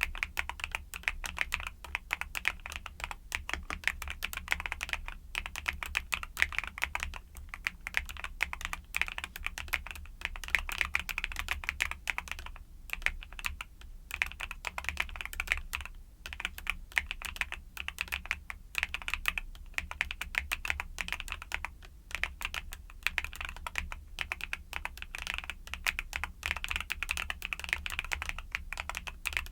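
Fast, continuous typing on a YUNZII mechanical keyboard with Cocoa Cream switches: a dense stream of key clacks with a few brief pauses.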